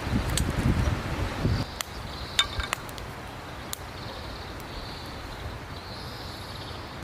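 Wind buffeting the microphone in low rumbling gusts for the first second and a half, then easing off. After that, a few sharp clicks come over a faint steady outdoor background.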